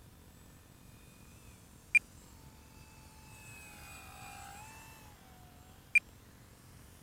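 Two short, sharp electronic beeps about four seconds apart, the first about two seconds in, over faint low background noise. Between them a faint tone rises and falls in pitch.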